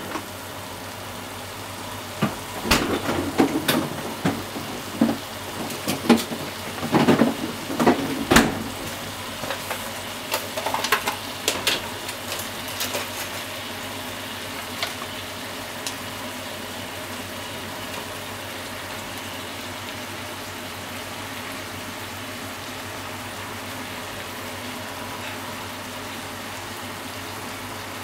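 Pork and vegetable stir-fry sizzling steadily in a frying pan. From about two seconds in to about twelve, a run of sharp knocks and clatters of kitchen things, then only the steady sizzle.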